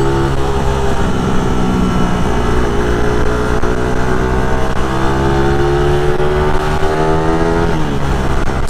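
Motorcycle engine running under way, its pitch climbing slowly as the bike gathers speed, then dropping near the end.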